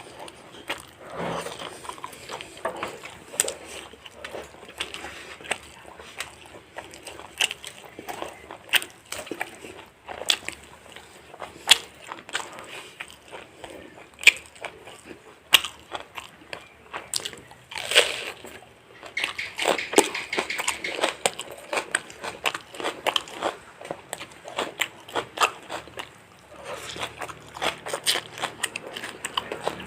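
Close-up eating sounds of fried chicken: irregular crunchy bites into the crisp coating and wet chewing, with sharp crackles scattered throughout.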